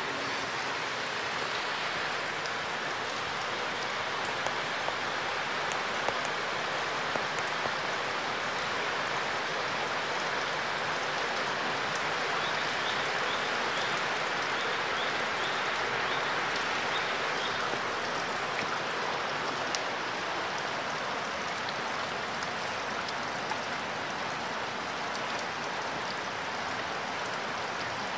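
Steady rain falling in the forest at night, with scattered sharp taps of drops.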